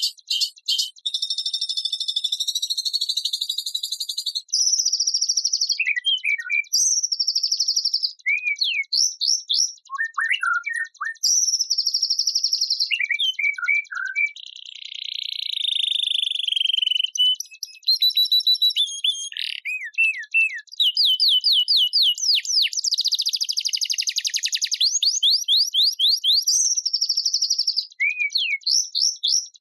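Songbird calls and songs edited together as a masteran track for teaching white-rumped shamas. Fast runs of high whistled sweeps and trills alternate with short chips and a few harsh buzzy phrases, one of them lasting about two seconds midway, changing every few seconds.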